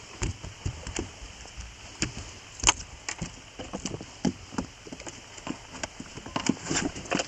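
Rain pattering, with many irregular sharp taps of drops striking close to the microphone.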